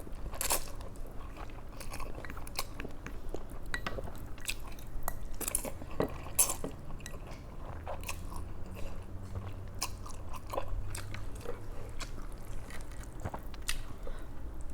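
Close-up eating sounds: chewing and biting food, with many short crunches and wet clicks scattered through.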